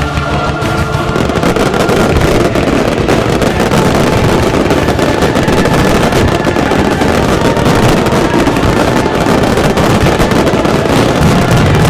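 Fireworks going off in a dense, unbroken barrage of closely packed bangs and crackle, loud throughout.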